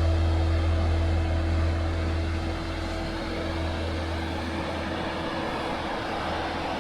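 BMW R1150GS Adventure's boxer-twin engine running steadily while riding, with wind and road noise. The sound drops a little about two and a half seconds in.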